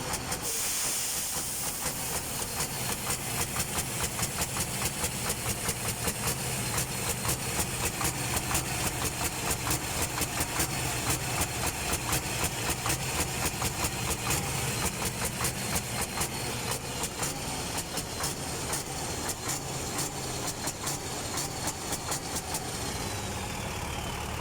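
Mercedes-Benz Actros truck diesel engine idling with a regular pulsing beat, about two to three pulses a second; the truck has a hard-starting fault. A short hiss comes right at the start.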